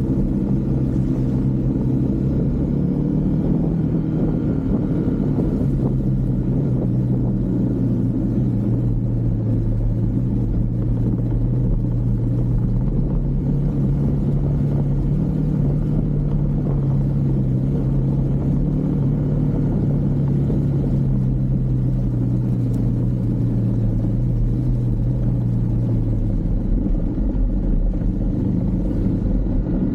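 Husqvarna Svartpilen 401's single-cylinder engine running at a steady cruise under a low wind rumble, the engine note shifting a little in pitch and dropping away near the end.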